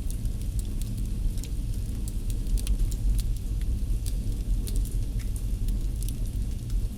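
Wood fire crackling in a fireplace: frequent small, irregular pops and snaps over a steady low rumble of flames.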